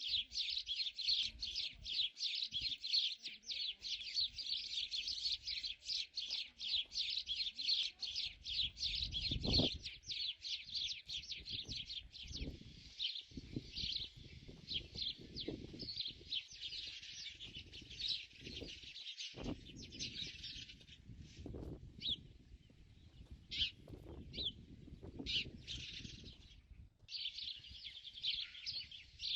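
Many small birds chirping rapidly and overlapping in a dense chatter, which thins to scattered chirps in the second half. Irregular low thumps and rumbles sit beneath.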